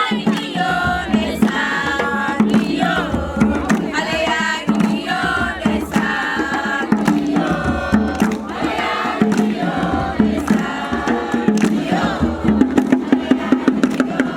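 A group of voices singing a chant-like song, with a steady run of sharp percussive beats coming in near the end.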